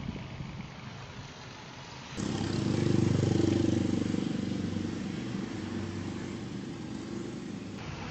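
Vehicle engine running, then an abrupt cut about two seconds in to a louder engine that swells briefly and then holds a steady note.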